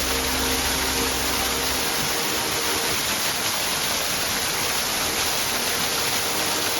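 Small waterfall: steady rushing of falling water.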